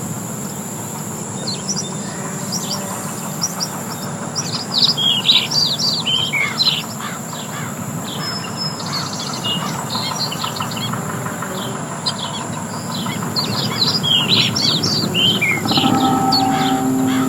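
Several songbirds chirping and twittering in quick, overlapping short calls over a steady background hiss of outdoor ambience. Near the end, a held low musical note comes in underneath.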